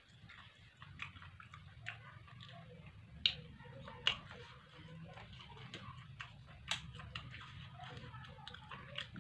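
Close-up chewing and biting of food: wet mouth sounds with irregular sharp clicks and crackles, the loudest a little past three and four seconds in and again near seven seconds.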